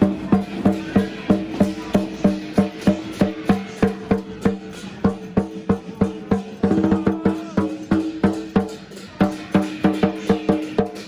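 Percussion music: steady struck beats, about three or four a second, over sustained ringing tones, with a quick roll of strikes about seven seconds in.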